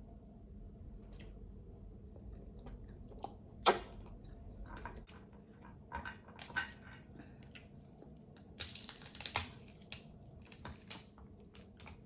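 Eating crab close to the microphone: scattered sharp clicks and snaps of shell being handled and cracked, with chewing. The loudest is a single snap about four seconds in, and there is a dense run of crackling about nine seconds in.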